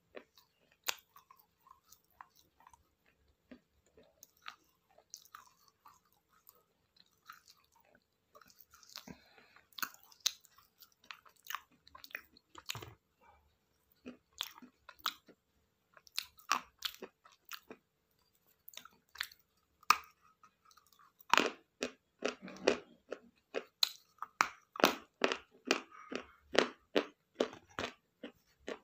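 Close-up chewing and crunching of food in the mouth: separate crisp chews, sparse at first, then quicker and louder from about two-thirds of the way in, at about two a second.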